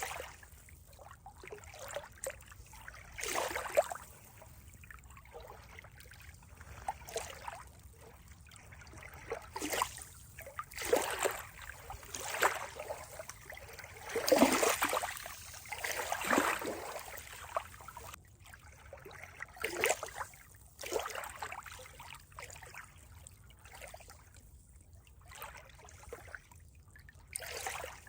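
Water trickling and splashing in irregular surges, the strongest about halfway through.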